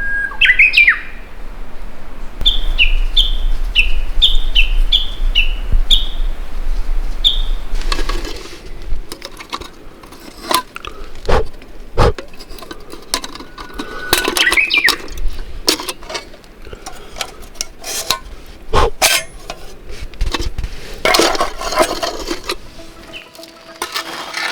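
Wild birds singing: a whistle and quick falling notes, then a run of short repeated falling calls for several seconds, with the same song again about halfway through. From about eight seconds in there are irregular sharp clicks and clinks, with a low rumble underneath at the start.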